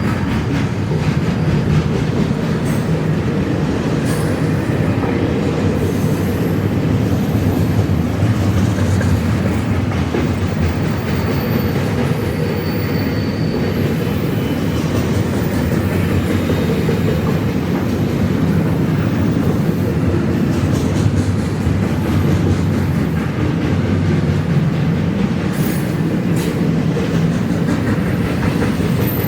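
Freight train cars rolling steadily past, a loud constant rumble of steel wheels on rail with occasional clicks, and a couple of faint high wheel squeals about a third of the way in.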